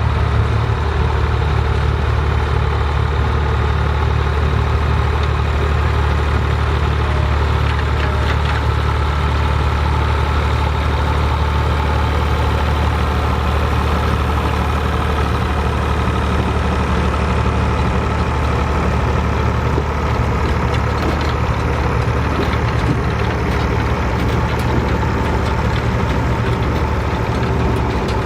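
Vintage farm tractor engine running steadily at low revs, a deep even hum close by.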